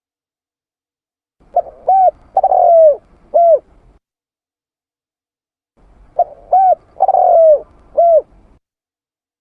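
Spotted dove cooing: two phrases of four notes each, the third note long and falling, about four and a half seconds apart.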